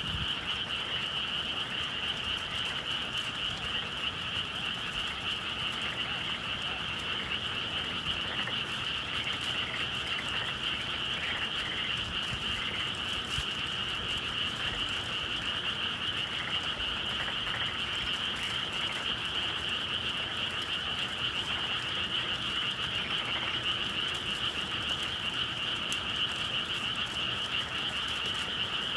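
A dense chorus of many frogs calling without a break, an even din.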